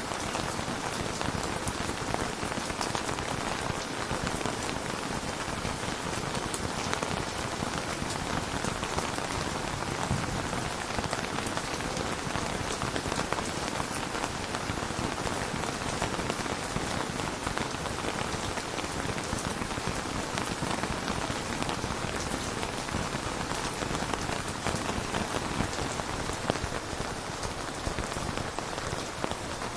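Steady rain falling, a dense even patter with individual drops ticking through it.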